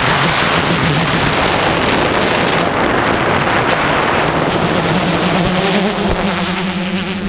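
DJI S1000 octocopter's motors and propellers droning with a wavering low hum, under heavy wind rushing over the microphone. The hum grows steadier and fuller over the last couple of seconds.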